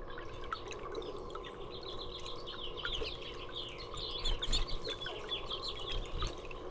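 A small songbird singing a fast run of many short, falling high notes for about four seconds, starting about two seconds in, over scattered faint drips of water.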